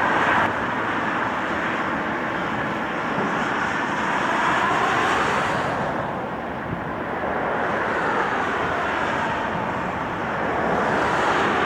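Aircraft engines running: a steady rushing drone that eases slightly partway through and swells again.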